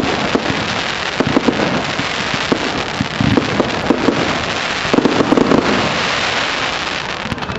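Fireworks display: a dense, continuous crackle of many small bangs and pops, with louder clusters of pops about a second in and again about five seconds in.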